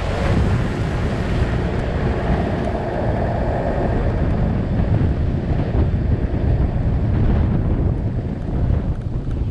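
Strong wind buffeting the microphone, with a steady rumble underneath.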